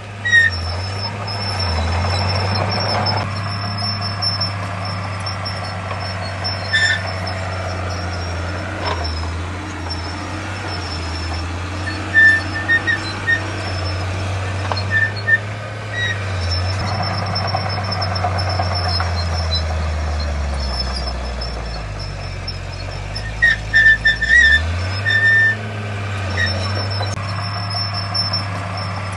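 Heavy diesel earthmoving machinery running steadily; its engine note drops low for a few seconds about twenty seconds in, then rises back. Short high-pitched squeals come through several times.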